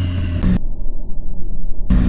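Motorcycle riding noise, with the engine and wind rumbling on the camera mic. About half a second in, a couple of clicks come and the sound turns to a muffled low rumble with all the treble gone. It opens up again near the end.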